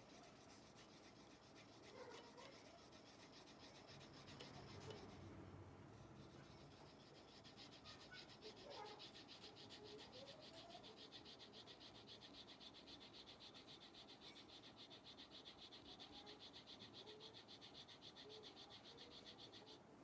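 Hand rubbing of the edge iron with an abrasive, a dry scraping that settles into quick, even back-and-forth strokes about a third of the way in.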